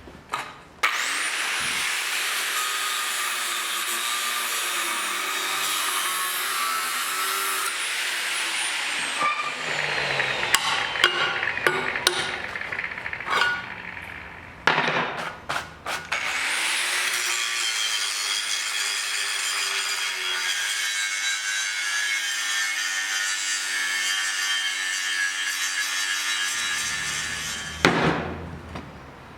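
Power saw cutting, in two runs. Each run starts with the motor's rising whine and ends with it winding down, and there are knocks and clatter between the runs and a thump near the end.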